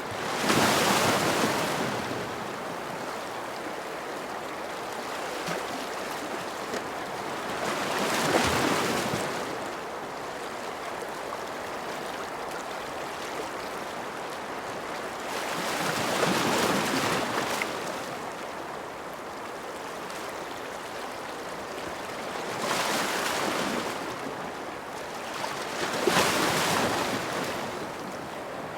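Ocean waves breaking and washing ashore over a steady hiss of surf, with five louder breakers spaced several seconds apart.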